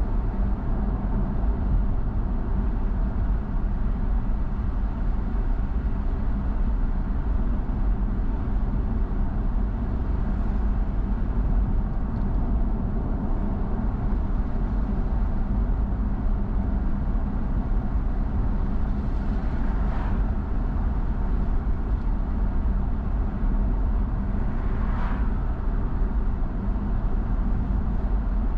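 Car driving along a road: a steady low rumble of road and engine noise, with two brief louder swishes about 20 and 25 seconds in.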